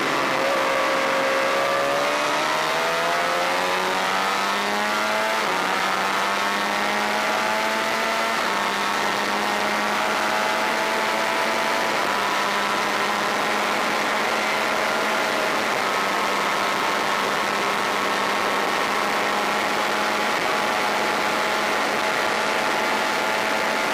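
Honda VFR400 race bike's 400 cc V4 engine pulling hard: the revs climb steadily for the first five seconds or so, then hold high and nearly steady.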